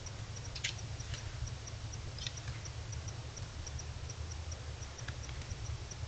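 A small animal's short, high-pitched chirps repeating irregularly, about three or four a second, over a steady low rumble, with a few sharp clicks.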